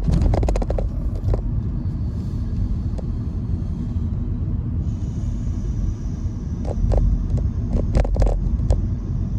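Car driving, heard from inside the cabin: a steady low road and engine rumble, with a few short clicks and knocks just after the start and again near the end.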